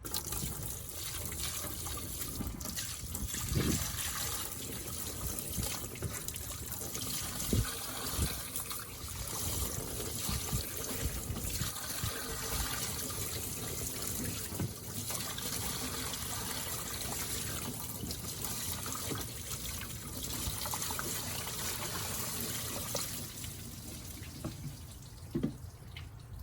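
Water poured from a bucket, splashing and trickling over a pickup truck's battery tray to rinse off the corrosion, with a few short knocks; the pouring dies away near the end.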